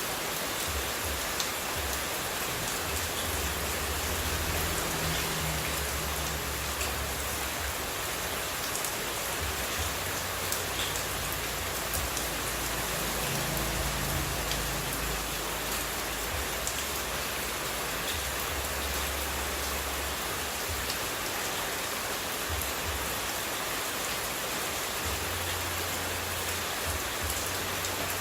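Steady water white noise: an even hiss of water with scattered faint ticks and a soft low rumble that comes and goes.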